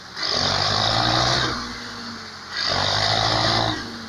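Tractor diesel engines working hard under load, surging in a steady rhythm: loud for about a second, easing off, then loud again, roughly every two seconds, twice in a few seconds.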